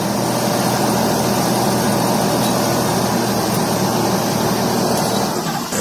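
Heavy construction machinery's diesel engine running steadily under load, with a brief dip in level just before the end.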